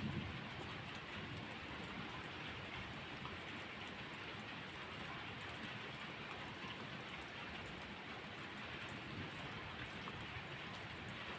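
Steady rain falling, an even continuous hiss, with a brief low rumble of thunder dying away at the very start.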